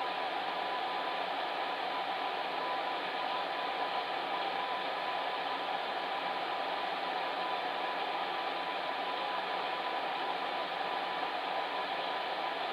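Electric fan heater running steadily: an even whoosh of blown air with a faint steady hum.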